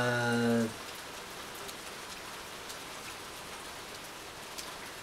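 Steady rain falling, an even hiss with a few scattered drop ticks. A man's brief hummed "mmm" sounds at the very start.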